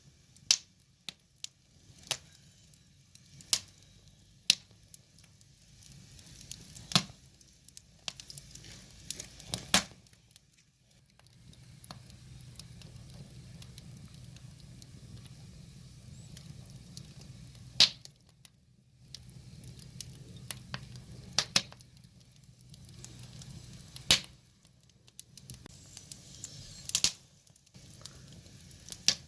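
Firewood burning in an open fire: irregular sharp crackles and pops over a faint low rustle of flame. A few pops stand out much louder than the rest.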